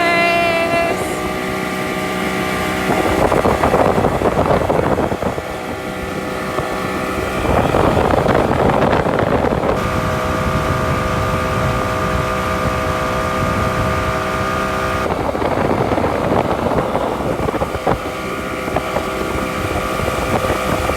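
Motorboat engine running steadily under way, with gusts of wind buffeting the microphone several times.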